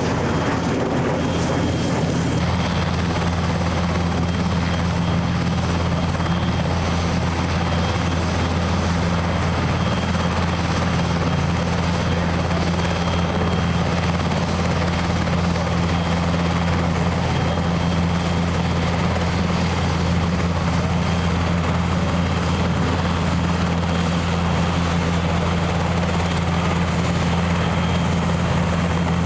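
Steady drone of a helicopter, holding one pitch and level without rising or fading.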